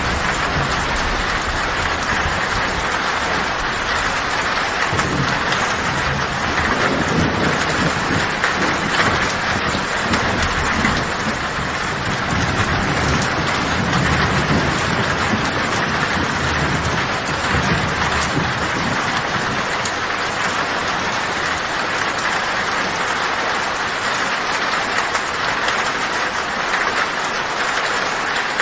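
Heavy rain falling on a tin roof as a steady hiss, with low thunder rumbling through roughly the first twenty seconds and then dying away.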